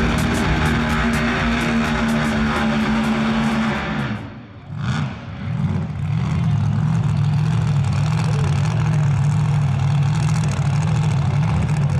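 Drag car engine running hard at high revs, dropping off about four seconds in, then running steadily again, with music playing underneath.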